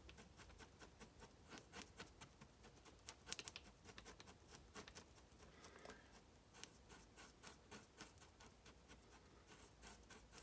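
Faint, irregular scraping and ticking of a small scrap-wood stick stirring a few drops of two-part 5-minute epoxy.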